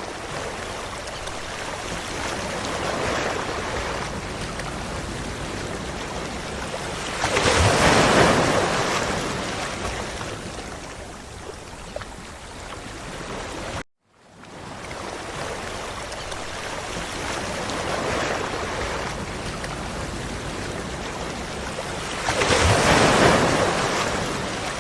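Ocean surf washing on a beach: a steady rush of water that swells as a wave breaks about eight seconds in and again near the end. About halfway through the sound cuts out abruptly and fades back in as the recording loops.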